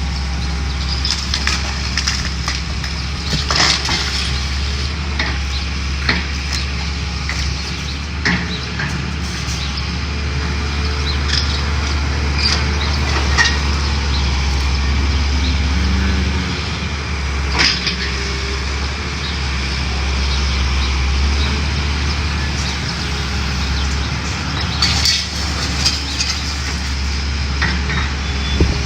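Building demolition: a heavy machine runs with a steady low rumble while debris cracks, crunches and splinters, with many scattered sharp cracks and crashes.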